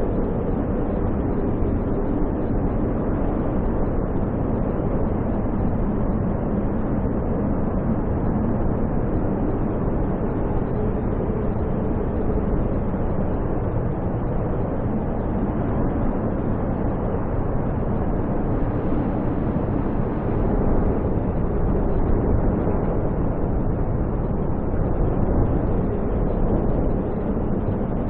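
Storm wind roaring steadily in a heavy snowstorm, a low rumbling rush that swells a little past the middle.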